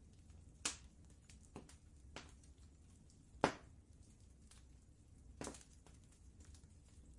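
Wood fire crackling: a scatter of faint snaps with a few sharper pops, the loudest about three and a half seconds in, over a low steady rumble.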